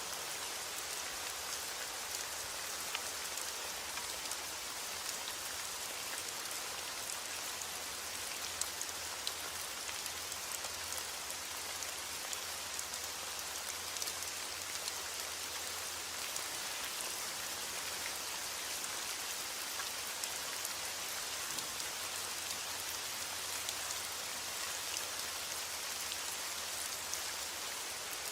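Steady rain falling, with many small drop ticks over an even hiss. The level holds constant throughout, with no thunder.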